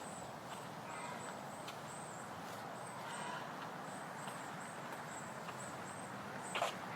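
Footsteps of a person walking at an even pace along a trail, with a few short faint bird chirps and a brief sharp sound near the end.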